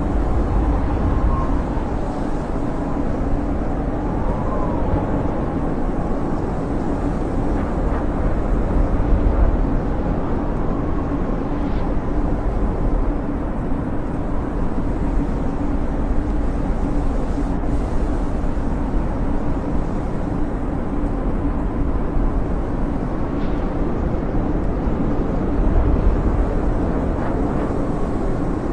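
Snowstorm wind howling: a steady low rush with a faint whistle that wavers up and down now and then.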